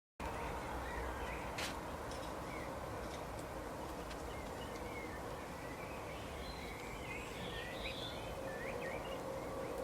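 Small birds chirping in short, scattered calls over a steady outdoor hiss with a faint hum, starting abruptly; a single sharp click comes about a second and a half in.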